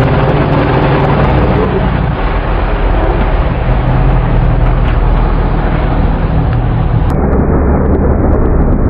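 Motorcycle on the move: a steady low engine rumble under loud wind noise rushing over the microphone. The sound turns duller about seven seconds in.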